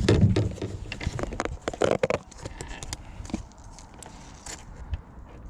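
A heavy thump, then a quick run of knocks and clicks that thins out after about three seconds, from gear being handled and bumped against a kayak.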